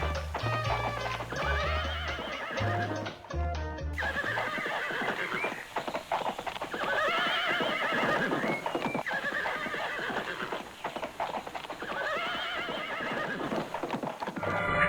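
Cartoon music with a bouncing bass line, then from about four seconds in a horse neighing several times over steady hoof clip-clops.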